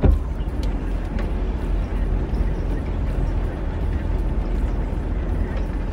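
Steady low rumble of a parked car's engine idling, heard from inside the cabin.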